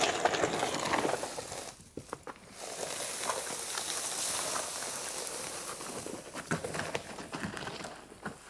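Footsteps and sticks crunching and snapping in dry brush on the forest floor while wood is gathered by hand. It stops briefly about two seconds in, then carries on and fades near the end.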